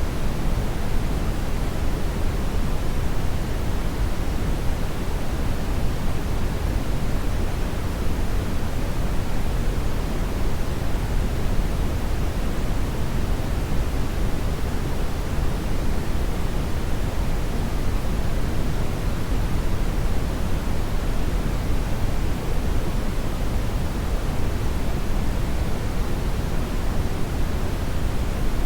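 Hair dryer running steadily: an even, unbroken rush of air, heaviest in the low end, with no change in pitch or level.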